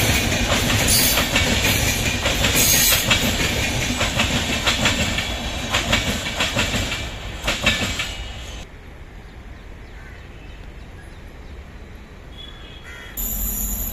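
Passenger train coaches rolling past, the wheels clattering over rail joints with irregular clicks. About two-thirds of the way through the sound drops abruptly to quiet trackside background, and a louder rumble starts again near the end.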